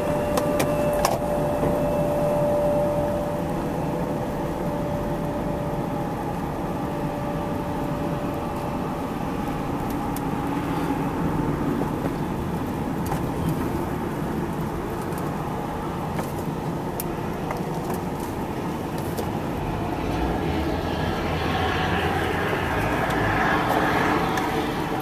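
Steady motor-vehicle running noise, a continuous low rumble, with a faint steady tone that fades out over the first several seconds and a few light clicks.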